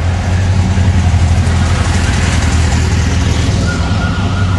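A vehicle engine running with a loud, steady low rumble. A thin, steady high tone joins near the end.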